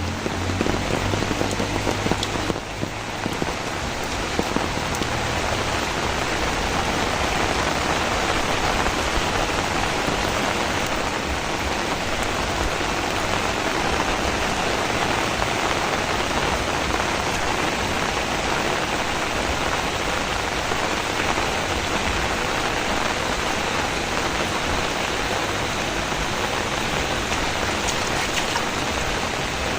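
Heavy rain falling steadily, an even hiss with no letup beyond a brief dip about two and a half seconds in.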